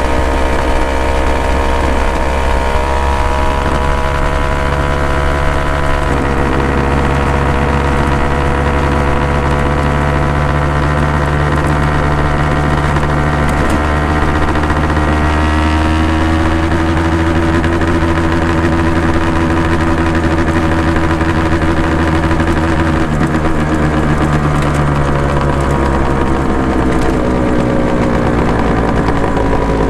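Honda NSR250 MC21 two-stroke V-twin running through Dog Fight Racing expansion chambers. Its note climbs slowly and steps abruptly about six seconds in and again around fifteen seconds. It falls away near the end.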